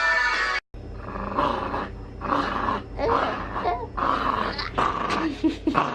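Background music cuts off under a second in. Then a Jack Russell terrier growls in play in a run of rough growls, with a few short higher-pitched notes near the end.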